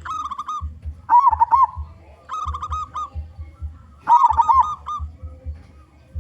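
Local zebra dove (perkutut) cooing: four short phrases of quick, rolling notes, the second and fourth loudest.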